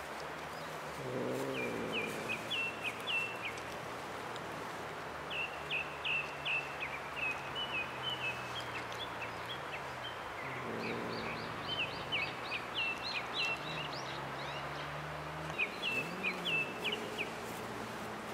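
A songbird singing short phrases of quick high chirp notes, four bursts of song with pauses between, over a steady low outdoor hum.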